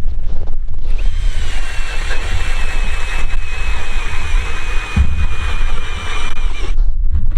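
Cordless drill turning an ice auger through the ice: a steady high motor whine that sags slightly in pitch under load. It starts about a second in and stops shortly before the end, over wind rumbling on the microphone.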